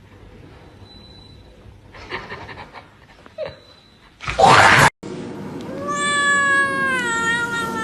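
A cat's long, drawn-out yowl, its pitch sliding slowly downward. It comes after a short, loud burst of noise that cuts off abruptly.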